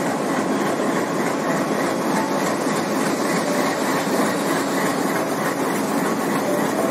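Indian Railways passenger train coaches rolling along the track, a steady noise of wheels on rail at an even level.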